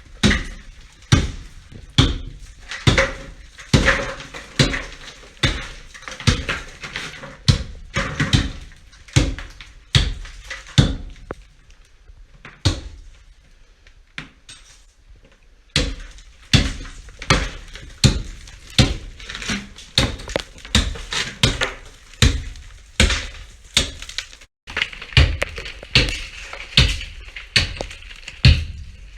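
Hand tool chipping at thick ice on a floor: repeated sharp strikes, roughly two a second, that thin out to a few scattered hits in the middle for about four seconds and then pick up again.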